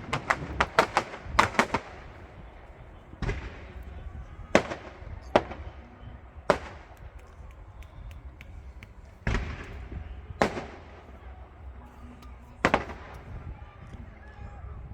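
Fireworks display going off: a quick string of sharp cracks in the first second or two, then single bangs every one to three seconds, each trailing off in crackle and echo.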